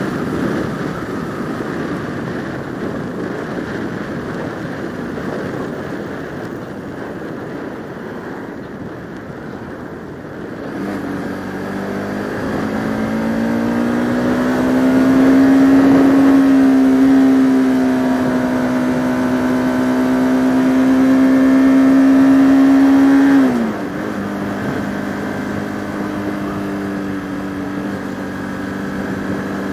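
Motorcycle engine heard from the rider's helmet camera, with wind rushing over the microphone at first. From about a third of the way in the revs climb and are held high for several seconds. They then drop sharply as the throttle is closed or a gear is changed, and the engine runs on steadily at lower revs.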